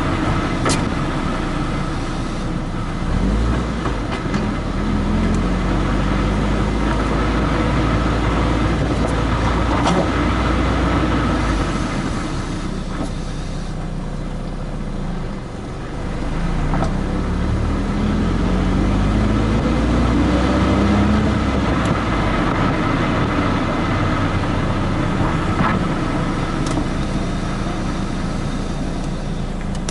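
Road noise of a car being driven, picked up from under the rear bumper: steady tyre and wind noise, with the engine and exhaust note rising twice as the car speeds up, and a few faint ticks.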